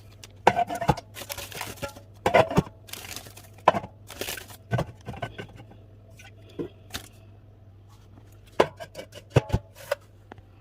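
Drink bottles and cans being handled and set down while restocking a fridge: irregular sharp knocks and clinks, with bursts of packaging rustling and tearing between them, over a low steady hum.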